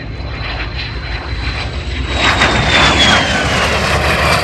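An aircraft making a high-speed pass over the crowd. The engine noise swells about halfway through, and its whine drops steadily in pitch as it goes by.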